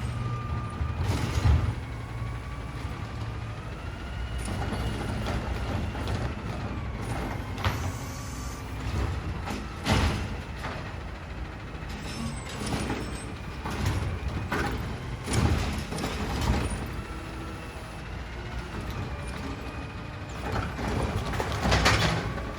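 Side-loader garbage truck at work: the diesel engine runs with a whine that slowly rises and falls, and loud clanks and knocks come every few seconds.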